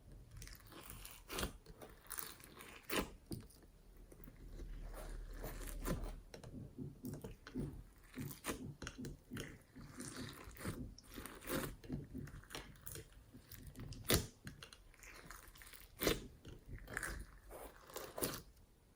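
Slime being squeezed and worked by hand, with irregular sharp clicks and crackly, crunchy pops.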